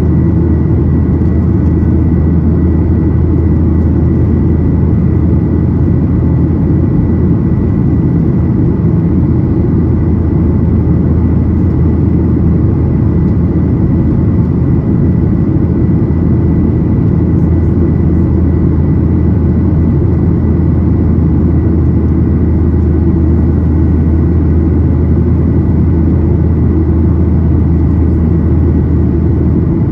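Steady cabin noise inside a Boeing 737-800 with its CFM56-7B engines running: a loud, even low rumble of engine and airflow with a faint steady high whine above it.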